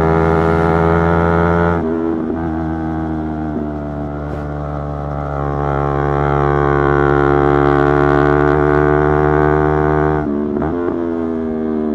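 Yamaha YZF-R3's parallel-twin engine running under way at fairly steady revs, its note breaking briefly about two seconds in and again near the end.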